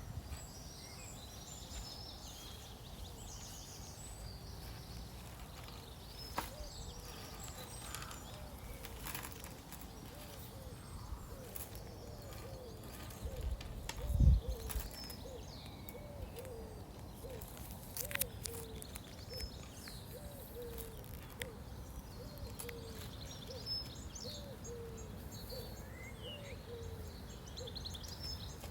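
Outdoor nature ambience of birds chirping over a low steady rumble, with a short low call repeating about every second through the second half. A single dull low thump about halfway through is the loudest sound.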